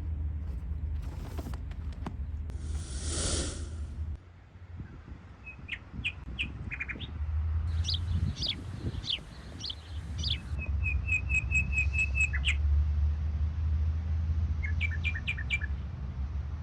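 Small birds chirping: short high calls, a rapid even trill of repeated notes, then a few more chirps near the end, over a steady low rumble. A brief rushing whoosh comes about three seconds in, before the birds start.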